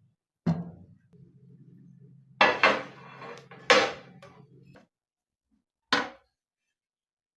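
Hard objects clattering and knocking, about five sharp hits with the loudest near the middle, over a low steady hum that stops just before the last hit.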